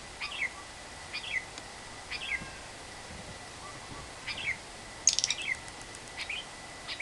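Lovebird calling in short chirps, about one a second, each a quick pair of falling notes. A rapid burst of sharp clicking chatter about five seconds in is the loudest sound.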